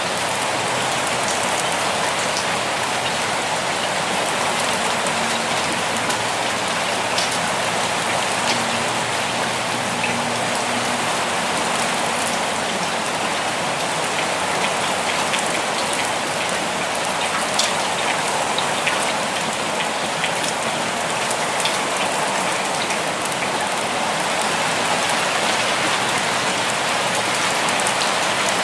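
Steady rainfall, an even hiss of rain with scattered sharper drop ticks here and there.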